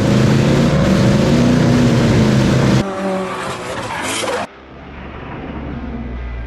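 Car engine running hard at high revs, with the hiss of tyre noise over it. The sound is in short clips cut together: it changes abruptly about three seconds in, and again about four and a half seconds in, to a duller steady low drone.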